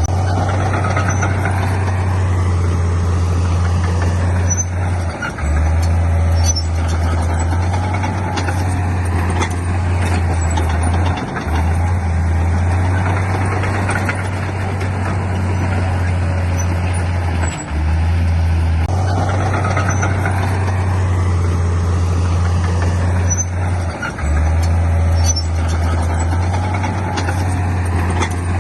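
Heavy diesel earthmoving machinery running under load: a steady low engine drone with mechanical clatter above it, breaking off for a moment about every six seconds.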